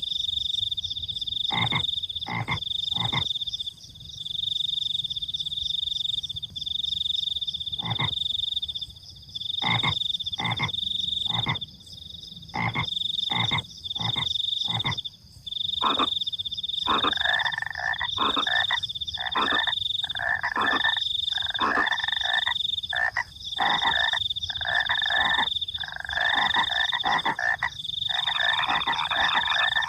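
Frogs croaking: separate short croaks at first, then from about halfway a rapid, denser run of croaks. Behind them a high cricket trill goes on in long bursts with short breaks.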